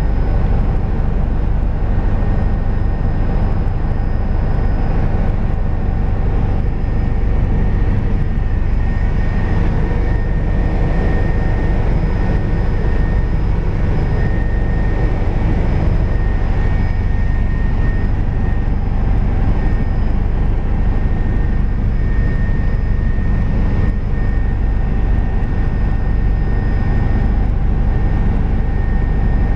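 Helicopter in flight: a loud, steady low drone of rotor and engine, with a few thin, steady high tones over it.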